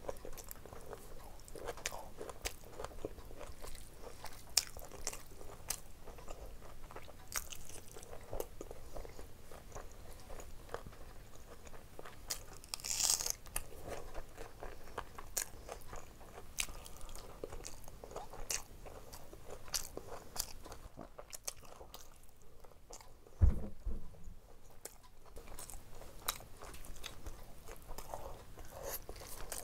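Close-miked chewing and wet mouth clicks of someone eating rice mixed with curry by hand. A single loud low thump comes about two-thirds of the way through.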